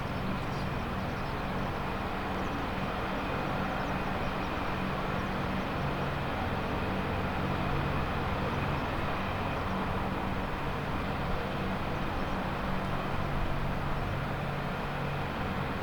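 AH-64D Apache attack helicopter running steadily: constant turbine and rotor noise with a low, even drone underneath.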